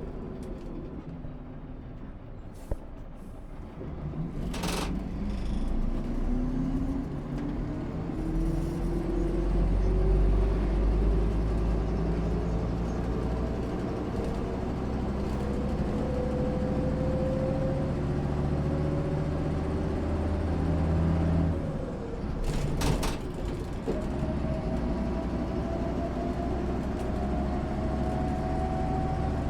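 MAN SÜ 272 bus's diesel engine pulling away and accelerating, its note climbing steadily, with a short sharp hiss of compressed air a few seconds in. About twenty seconds in the engine sound drops briefly, with a second air hiss, before it climbs again.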